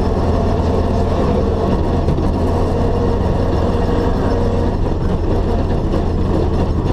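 Rally car's engine running steadily at low, even revs with road noise, heard from inside the cabin while cruising at road speed.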